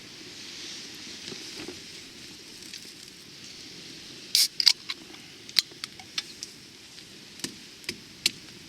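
Steady wind rushing, with a run of sharp clicks and knocks starting about halfway through, the loudest pair coming close together.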